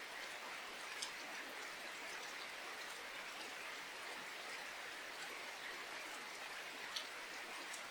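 Steady rain falling, an even hiss with individual drops ticking sharply now and then, the clearest about a second in and near the end.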